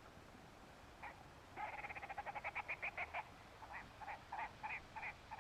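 Red grouse calling: a hoarse croak, then a fast rattle of croaking notes that speeds up, then slower croaks spaced apart.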